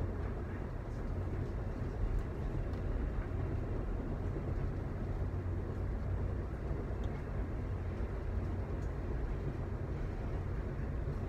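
Steady low rumble of a moving Amtrak passenger train heard from inside the car, wheels running on the rails, with a few faint clicks.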